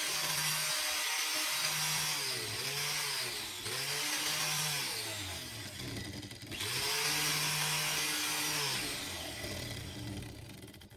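Angle grinder running and working material, its motor pitch sagging and recovering several times as it bears into the work, over a harsh grinding hiss. The sound cuts off suddenly at the end.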